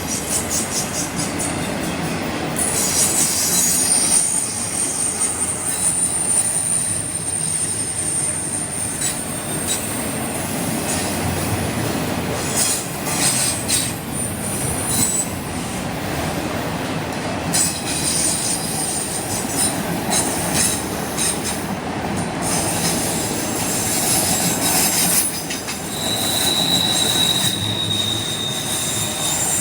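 Train rolling past with its wheels squealing on the rails: high, drawn-out squeals that come and go over a steady rumble, with bursts of rapid clicking from the wheels.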